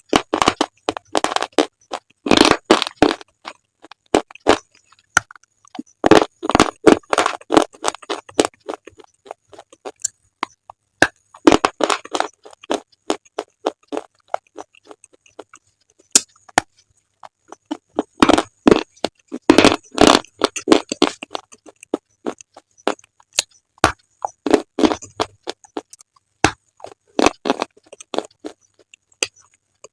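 Pieces of slate being bitten and chewed close to the microphone: single sharp snaps between several longer bursts of gritty crunching.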